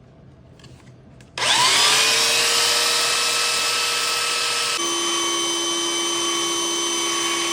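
Makita belt sander switched on about a second in: its electric motor and belt spin up with a rising whine, then run steadily. About three seconds later the whine shifts to a slightly different pitch and it keeps running.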